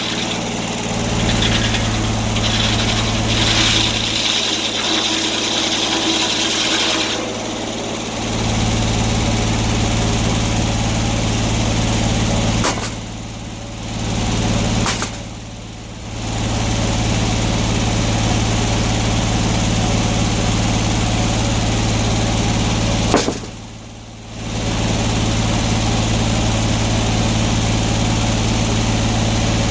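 Sawmill engine running steadily, with extra high-pitched noise over it for the first several seconds. The sound drops away briefly three times, each drop starting with a sharp click.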